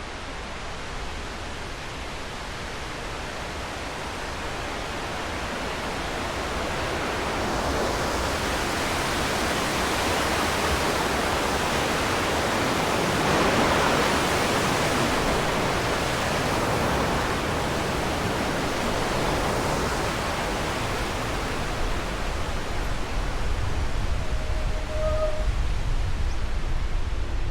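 Steady rushing noise of wind on the microphone while riding an e-bike, swelling to its loudest about halfway and then easing a little, with a low buffeting rumble building near the end.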